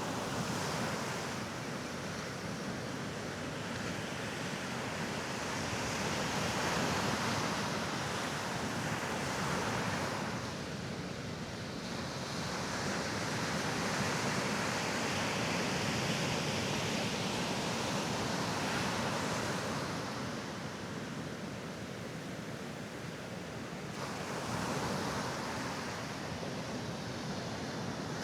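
Sea waves washing onto a sandy beach, a continuous rush that swells and eases every few seconds.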